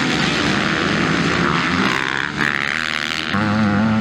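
Several motocross bikes' engines revving up and down together as they race, with one engine louder and holding a steady pitch in the last second.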